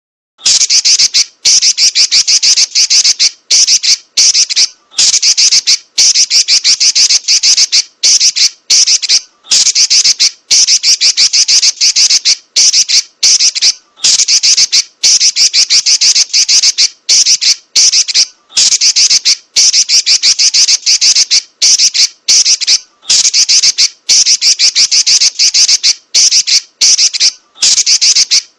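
Female red-billed leiothrix (Pekin robin) giving loud, high, rapid chattering rattles, over and over in runs of one to two seconds with short breaks between them.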